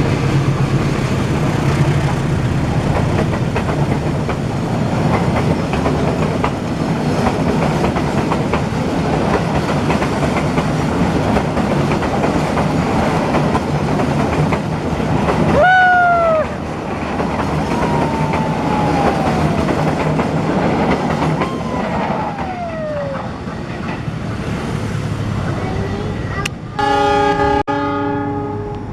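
Train running past with a steady rumble and wheel clatter, then a horn blast of about a second near the end.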